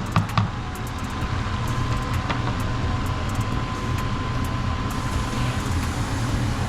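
A pot of chicken adobo simmering on the stove under a steady low hum, with a few quick clicks of a utensil against the pot at the very start. A faint steady high tone sounds for the first few seconds.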